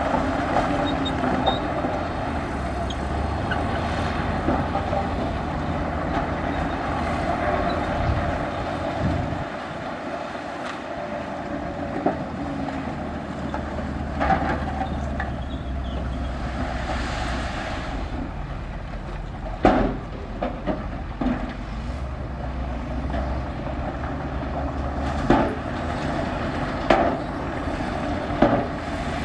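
Heavy diesel earthmoving machinery running steadily, with sharp metallic clanks now and then from about halfway through.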